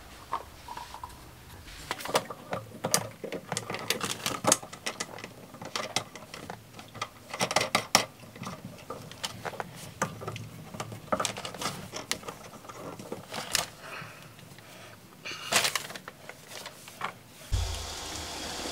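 Plastic drain pipe parts being handled and fitted together: irregular clicks and light knocks. Near the end a steady low hum begins.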